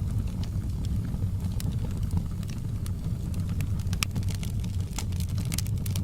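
Wood fire burning in a fireplace: a steady low rumble with irregular sharp crackles and pops, which come thicker in the second half.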